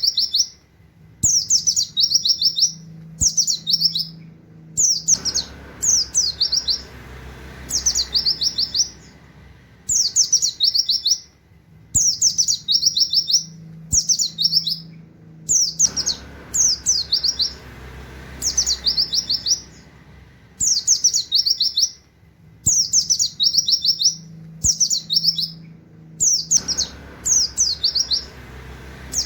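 A pleci (white-eye) singing its rapid 'nembak' song: short, high bursts of fast notes sliding downward, coming in groups of two to four with brief pauses between, over and over.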